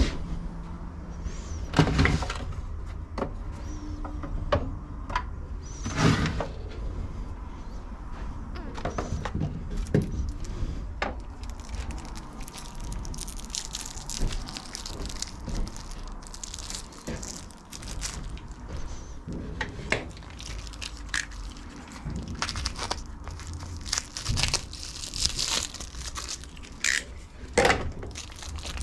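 Hands-on workshop noises while working on a lawn mower's self-propel drive: scattered knocks and clicks of parts and tools being handled, with a few stretches of scraping or rustling and a low background hum.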